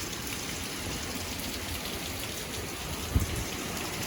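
Steady hiss of hurricane rain falling on surfaces, with a single low thump about three seconds in.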